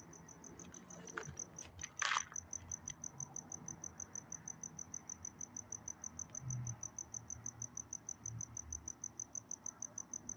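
Crickets chirping steadily at night, about five short high chirps a second, over a faint low rumble. A brief rustling noise about two seconds in is the loudest moment.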